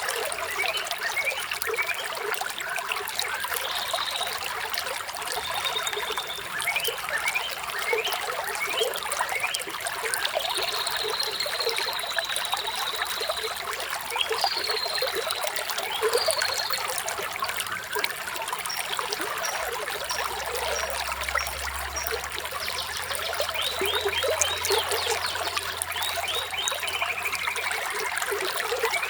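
Small stream of water trickling and splashing steadily, with birds chirping now and then: short whistles and trills, the longest a held trill about a third of the way in and a falling trill near the end.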